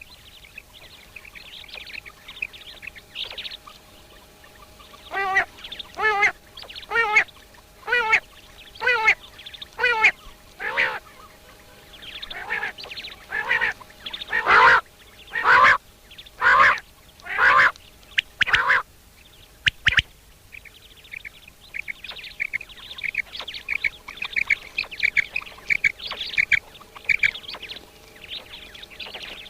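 A bird gives a series of nasal, honking calls about once a second, loudest around the middle. Near the end come many short, high chirping notes.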